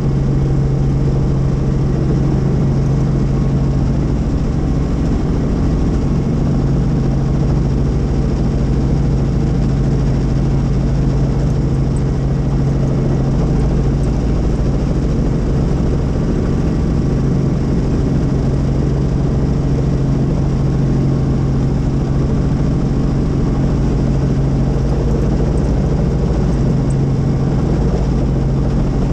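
Helicopter running steadily, with a loud, unchanging low hum from the rotor and engine over a rush of noise.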